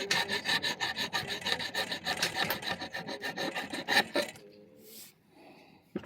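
Rasp working an oak bow limb to taper it, in quick, even strokes of about five a second. The strokes stop about four seconds in, and a single knock follows near the end.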